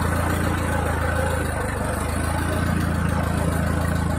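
Ford 8N tractor's four-cylinder flathead engine running steadily while the tractor tows a light log.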